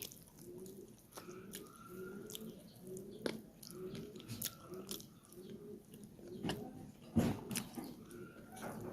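Close-up chewing of chicken curry and rice: wet mouth sounds in a steady rhythm of about two chews a second, with a few sharp crunches or clicks.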